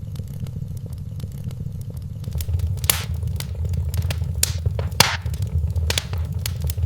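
Wood fire crackling in a fireplace: a steady low rumble under frequent small crackles, with several sharper, louder pops in the second half.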